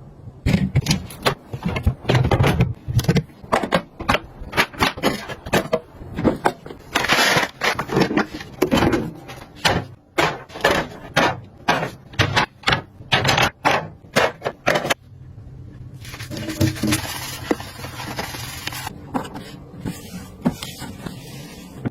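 Household items being handled and set down: a quick, irregular run of clicks, taps and scrapes, giving way about fifteen seconds in to a steadier rustling scrape.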